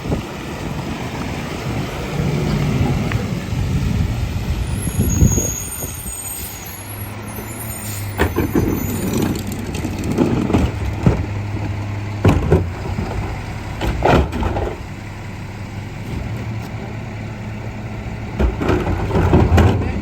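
Garbage truck's diesel engine running steadily while trash is loaded, with repeated clanks and bangs of bins and refuse, and a hiss of air brakes partway through.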